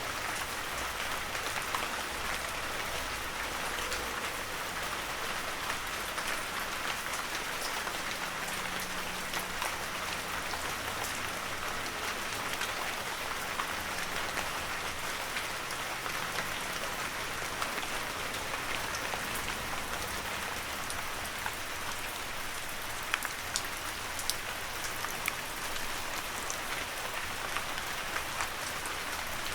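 Heavy rain falling steadily, a dense even hiss made up of countless drops, with scattered sharper drop ticks standing out now and then.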